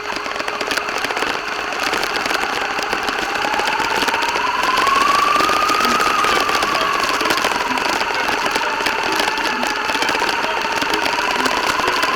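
Remote-control car driving: the motor's whine slowly rises and falls in pitch with speed, over a steady rattling hiss from the car.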